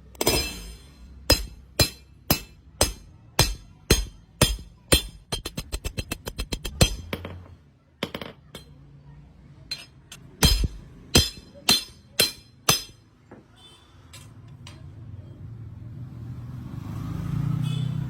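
Blacksmith's hammer striking a khukuri blade on the anvil with ringing metallic blows. The blows come about two a second, then a quick run of lighter taps, a pause, and another set of blows. A low rumble rises near the end.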